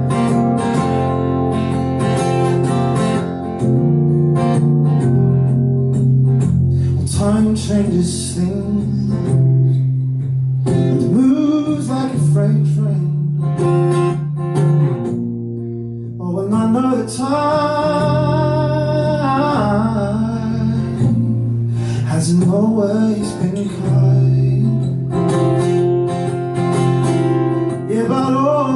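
Live acoustic song: acoustic guitar strummed as accompaniment, with a man singing long, sliding vocal lines that come and go, strongest about two thirds of the way through.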